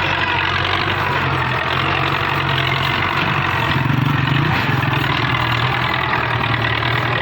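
Massey Ferguson tractor's diesel engine running steadily, rising a little in strength about four seconds in.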